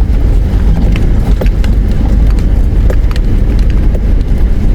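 A 4WD driving over a rough dirt track, heard from inside the cabin. There is a steady low rumble of engine and tyres, with scattered knocks and rattles from the bumps.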